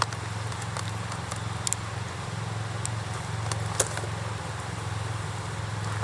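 Wood campfire crackling, with a few sharp pops, the loudest about two seconds and four seconds in, over a steady low rumble.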